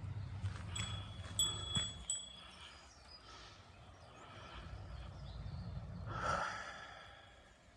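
A small metal bell ringing four times in quick succession in the first two seconds, with clear high ringing tones that die away.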